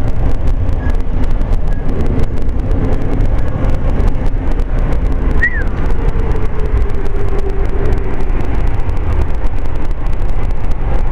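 Steady low rumble of a moving Amtrak passenger train heard from inside the coach, with frequent small clicks and rattles.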